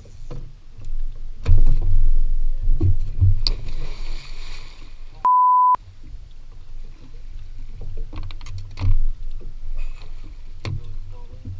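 Low rumbling with a series of knocks and thuds, broken about five seconds in by a single steady beep lasting half a second.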